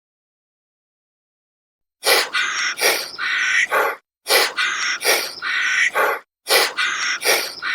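After about two seconds of silence, a short clip of animal calls repeating in a loop, starting over about every two seconds.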